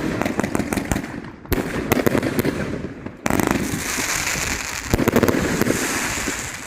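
Fireworks going off in rapid succession: dense crackling with sharp reports. Fresh volleys break in about a second and a half and about three seconds in. A hiss runs through the second half, and the sound tails off near the end.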